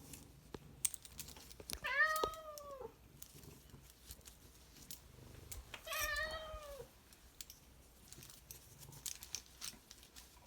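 Domestic cat meowing twice, about four seconds apart; each meow is drawn out for about a second, rising and then falling in pitch. Faint scattered clicks and taps are heard around them.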